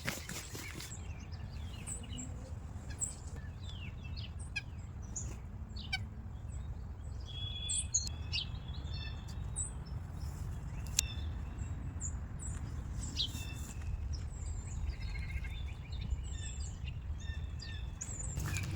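Wild songbirds chirping and singing, short calls and quick runs of notes scattered throughout, over a steady low rumble.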